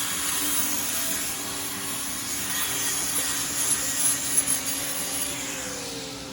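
Angle grinder grinding metal with a steady harsh hiss, then released near the end, its whine falling in pitch as the wheel winds down.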